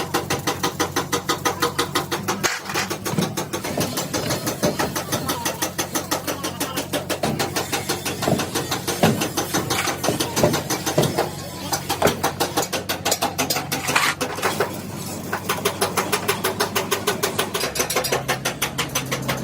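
A machine running steadily with an even pulse of about five beats a second, with a few sharper metal knocks in the middle.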